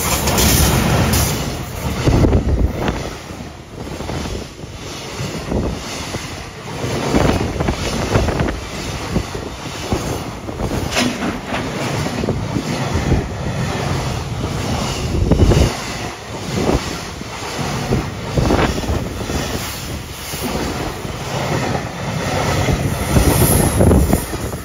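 A JR Freight EF210 electric locomotive passing close by, loudest about a second in, followed by a long train of Koki container flatcars rolling past. The wheels clatter over the rail joints in an uneven pulsing rhythm throughout.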